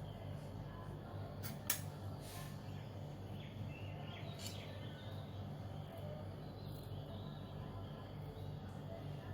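A low hum pulsing a few times a second, with a few faint clicks near the start and one around the middle.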